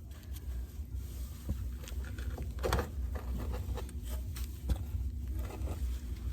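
Scattered light knocks, clicks and rustles of hands and tools working on drain pipe, over a steady low rumble.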